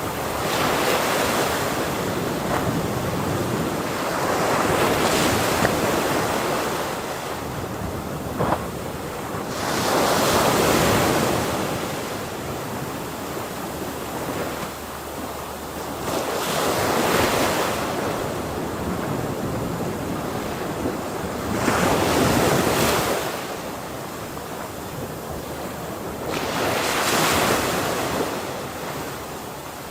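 Ocean waves breaking and washing in, a continuous surf noise that swells and falls about every five seconds.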